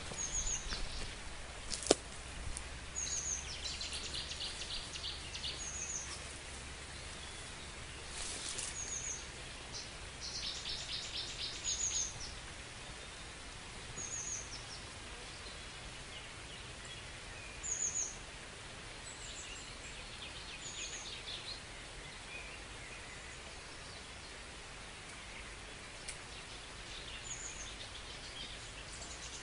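Songbirds calling outdoors: short high chirps every few seconds and bursts of rapid trills, over a steady background hiss. A single sharp click about two seconds in.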